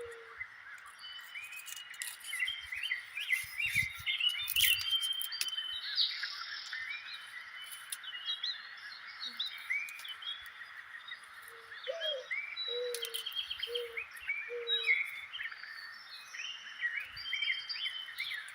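Outdoor bird chorus: many small birds chirping and calling over one another. A low call repeats five times about two-thirds of the way through.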